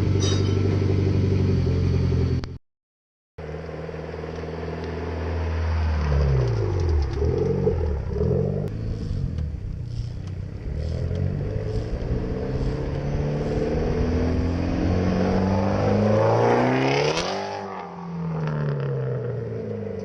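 Mitsubishi Lancer Evolution X's turbocharged four-cylinder running through a 3-inch straight-pipe exhaust, muffled only by a resonator in the test pipe. It runs steadily, cuts off briefly about three seconds in, then rises and falls in pitch as the car drives and revs, with a swell and drop near the end like the car going by.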